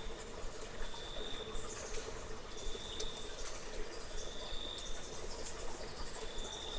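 An insect giving a short, steady high-pitched trill about every second and a half, over trickling and dripping water.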